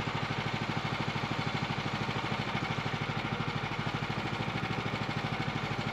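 Small gas engine of a portable sawmill running at a steady speed, with an even, fast pulsing beat.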